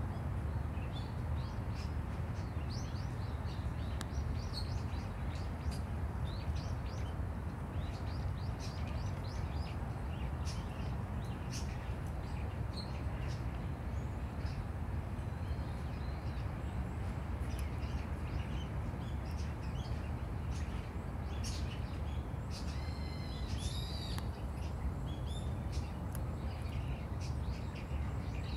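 Small birds chirping and calling on and off over a steady low rumble, with a run of quickly repeated calls near the end.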